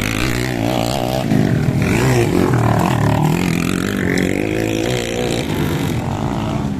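Motorcycle engine revving, its pitch rising and falling unevenly.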